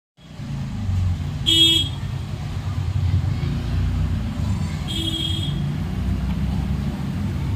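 Street traffic: a steady low rumble of vehicles, with two short vehicle horn honks, about a second and a half in and again about five seconds in.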